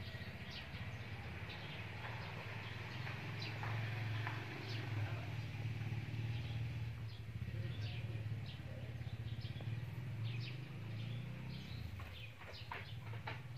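Small birds chirping here and there over a steady low hum.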